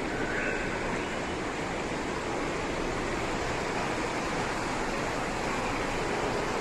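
Indoor mall fountain: a steady rush of falling, splashing water, with a brief faint high tone rising in pitch about half a second in.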